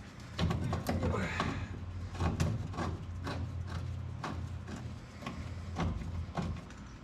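Hand wrench work on a bolt: a run of irregular metal clicks and clinks, over a steady low hum.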